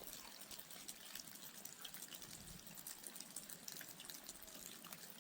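Faint steady rain, with many small drops and drips ticking irregularly.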